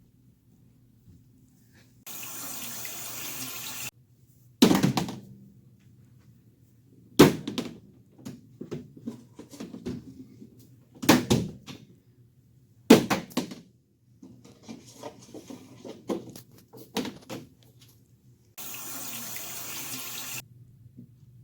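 Water running from a tap twice, each time for about two seconds, with four loud sharp knocks and some clattering in between.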